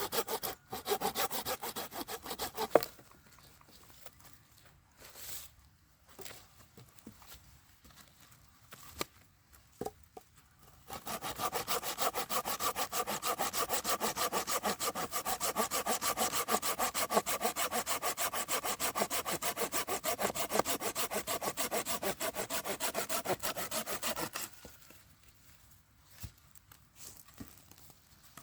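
Hand saw cutting through firewood in quick, even strokes. It stops about three seconds in, leaving a few knocks and clicks, then saws again steadily for about thirteen seconds before stopping.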